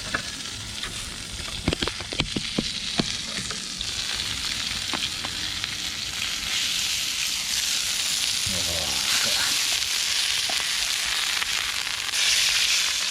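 Burger patty frying over a campfire: a steady sizzling hiss that grows louder about halfway through, with a few sharp clicks or taps in the first few seconds.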